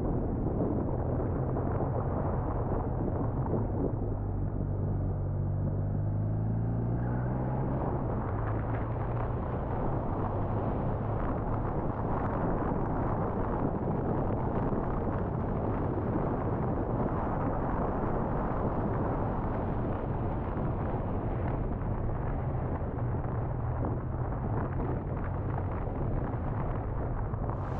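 BMW R1200R boxer-twin engine running under way, with wind and road rush on an onboard camera. The engine rises in pitch between about four and seven seconds in as the bike accelerates, then runs steadily.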